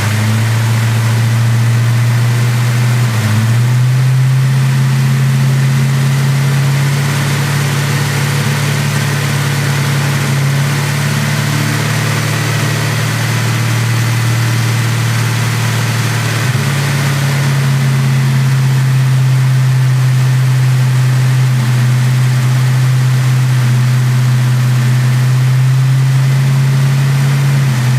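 Fox-body Ford Mustang engine idling steadily, its pitch shifting slightly a few times. It is running with a misfire that the owner has been unable to trace.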